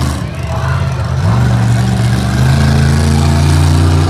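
Monster truck engine at high revs: it drops off briefly, revs back up about a second in, and then holds steady at high revs.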